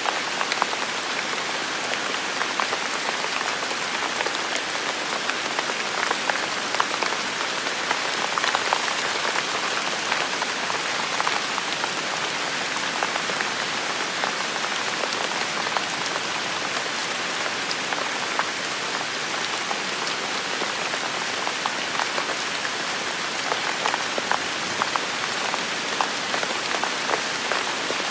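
Heavy rain falling steadily: a dense, even hiss with many sharp ticks of individual drops striking close by.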